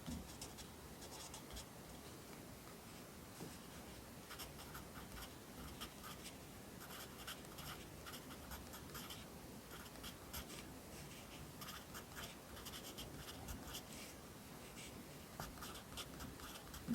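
Pencil writing Korean letters on paper: quick, light scratchy strokes in bursts with short pauses between characters, and a soft thump at the very end.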